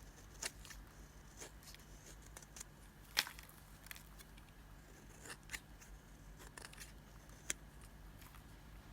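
Crisp cracks and crunches of an old, dried-out Nissan red-box bar soap being cut. About half a dozen separate snaps come at irregular spacing, the loudest about three seconds in.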